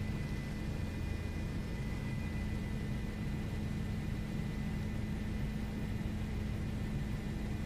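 News helicopter in flight: a steady, unchanging drone with a strong low hum and a thin, high, constant whine over it.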